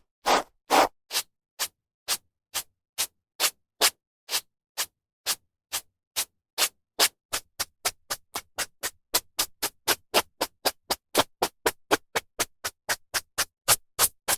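A hairbrush stroking through hair in short, quick swishes with silence between them, about two strokes a second at first, quickening to about four a second in the second half.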